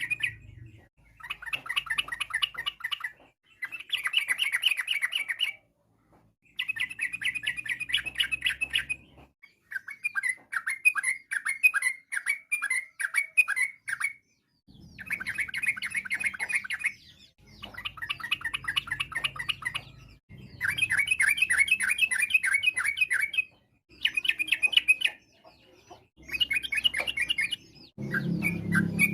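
Yellow-vented bulbul singing in bursts of rapid, bubbling chatter, the fast 'ropel' song of a bird in full voice. About ten phrases of one to three seconds follow one another with short pauses between them.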